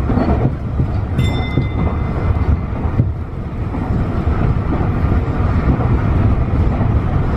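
Tobu 50090 series electric train running, a steady rumble of wheels on rail heard aboard. A short high-pitched tone sounds about a second in.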